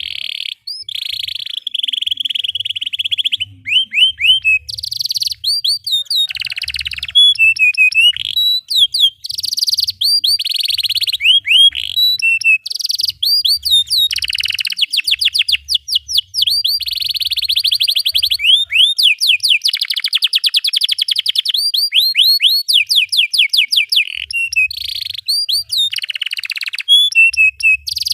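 Domestic canary singing a long, continuous song: fast rolling trills of repeated notes, quick rising chirps and held buzzy phrases, with only brief breaks.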